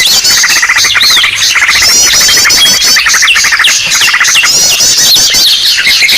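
Bird-lure recording of a noisy flock: many small birds chirping and trilling loudly over one another, with fast repeated trills and short rising and falling whistles.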